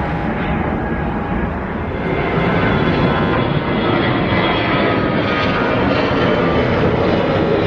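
Jet airliner's engines at takeoff power: a loud, steady rush of noise with a faint high whine, growing a little louder about two seconds in.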